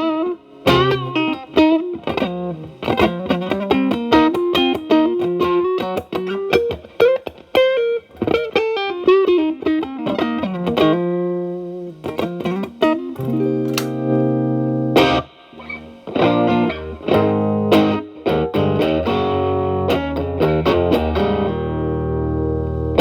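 Telecaster through an E.W.S. Brute Drive distortion pedal, its gain near 10–11, into a Marshall Valvestate amp: a distorted electric guitar playing quick single-note lead lines with bends and vibrato, then from about halfway through letting chords ring and strumming them, ending on a held chord.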